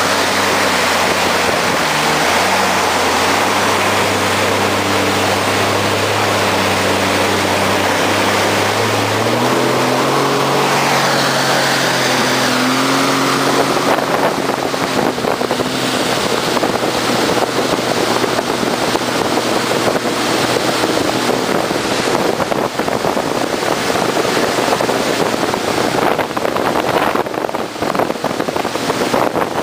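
Bombardier jet ski engine running under way, its pitch stepping up about ten seconds in as it speeds up; from midway on it is buried under rushing wind buffeting the microphone and water spray.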